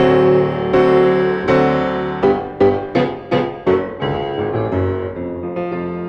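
Background piano music: chords and single notes struck and left to ring, with a quick run of repeated notes in the middle.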